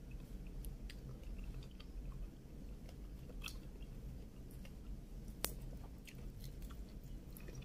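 Close-up mouth sounds of chewing and biting shrimp, with small crackles and clicks of the shells being peeled off by hand. One sharp click comes about five and a half seconds in.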